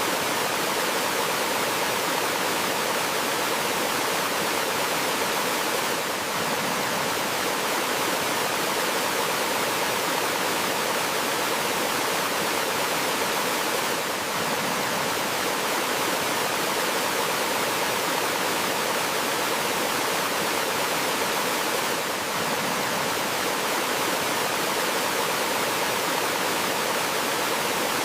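Flowing water rushing steadily over rocks in a small forest waterfall and stream, an even hiss with no breaks.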